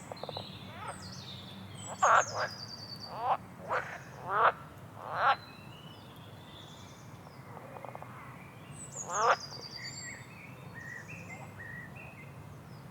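Frogs croaking: loud pulsed croaks, several in quick succession in the first half and one more a little past the middle, with birds chirping in short high notes between them.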